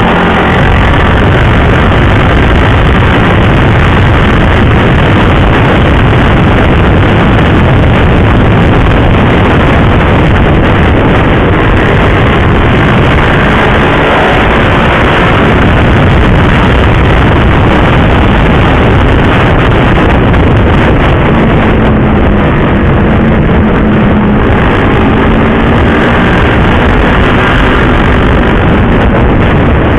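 Riding-speed wind noise rushing over a motorcycle's on-board microphone, with the running single-cylinder engine of a KTM RC 390 sport bike underneath. The engine pitch rises briefly near the middle and holds steadier later on.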